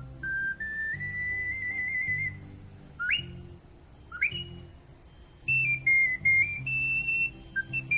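Ocarina playing a melody in clear, pure notes, with a long held note and then two quick upward slides before the tune resumes. A low accompaniment plays underneath.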